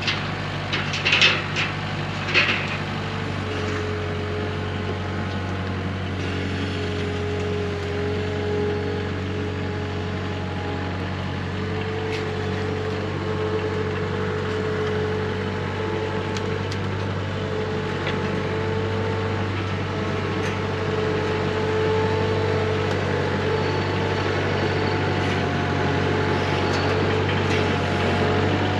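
An engine running steadily at a constant speed, with a few metallic clanks in the first couple of seconds.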